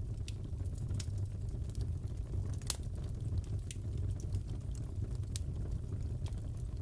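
Fireplace fire crackling: scattered sharp pops and snaps over a steady low rumble, with one louder pop about two and a half seconds in.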